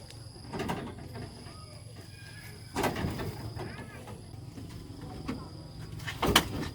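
A few knocks and clatters, the loudest and sharpest one near the end, over a low steady hum, with faint chirps in the background.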